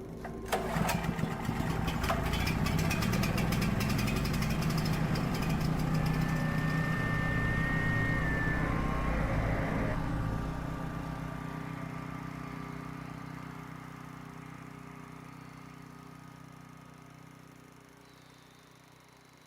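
An engine starting with a rapid clatter, running steadily, then fading away over the last several seconds.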